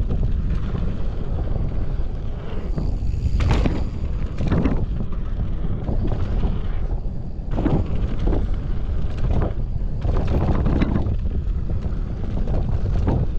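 Mountain bike riding fast down a rough dirt trail: wind buffeting the microphone over a steady low rumble of tyres, with repeated clatters and thuds as the bike hits bumps and landings.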